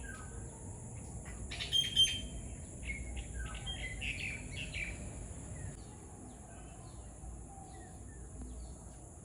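Birds chirping outdoors in short calls, busiest in the first half and thinning out later, over a steady high-pitched whine and a low background rumble.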